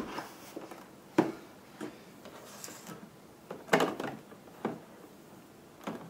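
Scattered hard clunks and clicks from handling a Saeco Syntia espresso machine's plastic and stainless-steel parts while feeling for the water tank, about five knocks with the loudest near the middle.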